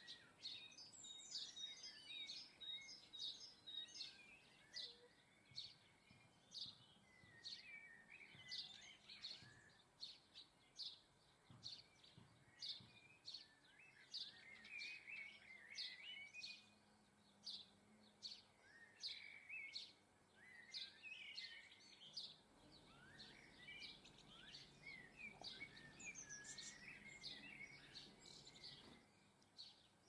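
Faint garden birdsong: many short, high chirps and call notes from several birds, overlapping densely.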